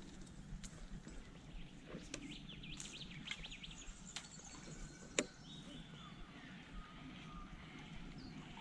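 Birds calling, with a run of rapid chirps about two to three and a half seconds in and more calls after. A single sharp click about five seconds in.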